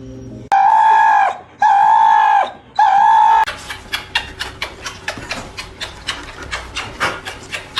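An animal calling three times, each a loud, even-pitched cry lasting nearly a second, followed by a run of quick sharp clicks, several a second.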